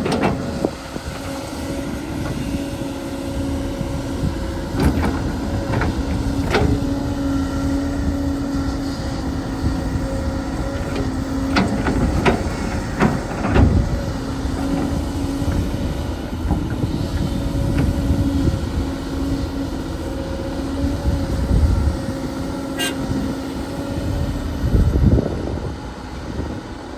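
Earth-moving machinery running: a steady engine hum with scattered knocks and clanks, and a heavier rumble near the end.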